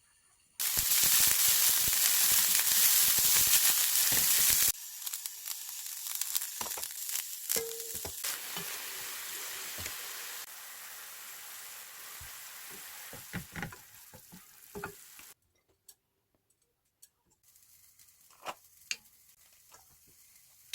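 Food frying in a hot pan: a loud sizzle for about four seconds, then quieter sizzling with utensil clicks and taps as it is stirred. Near the end the frying stops, leaving a short near-silent gap and a few light clicks.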